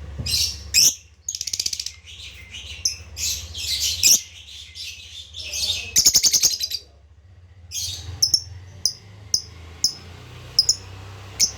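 Lovebird calling: shrill, dense chirping broken by rapid chattering trills, then a series of short sharp chirps about twice a second near the end.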